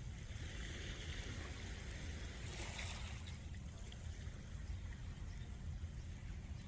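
Ocean water lapping and washing along the shore under a steady low rumble, with a louder wash about two and a half seconds in.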